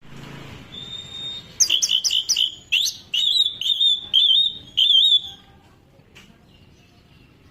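Orange-headed thrush singing: a quick run of sharp, high notes followed by wavy warbled phrases, lasting about four seconds before it stops.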